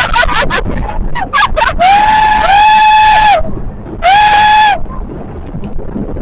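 Banana boat riders screaming: two long, high screams, the first about two seconds in and lasting over a second, a shorter one about four seconds in, over a steady low rumble.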